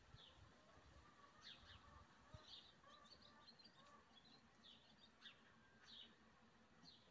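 Faint chirping of a small bird: short high chirps about once a second, several sliding down in pitch, with a quick twittering run about three seconds in.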